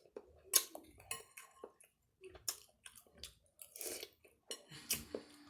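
Close-up mouth sounds of a person chewing food, with wet smacks and soft clicks coming in irregular bursts.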